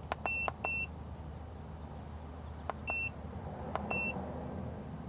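Handheld OBD2 code scanner beeping at button presses while erasing stored fault codes: a click and short high beep twice in quick succession near the start, then once about three seconds in and once about four seconds in, over a low steady hum.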